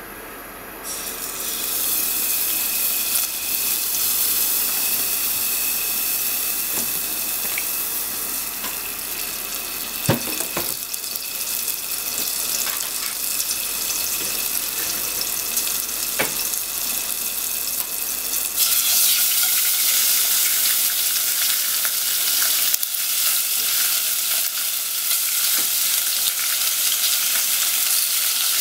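Hot oil and melting butter sizzling in a nonstick pot, with a few light knocks. About two-thirds of the way through, the sizzle grows louder and fuller as raw chicken pieces fry.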